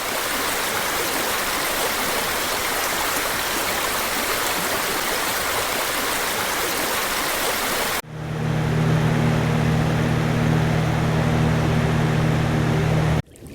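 Dremkit T7 white noise machine playing a steady white-noise hiss that sounds like rushing water. About eight seconds in it switches abruptly to a deeper, fan-like hum, which cuts off just before the end.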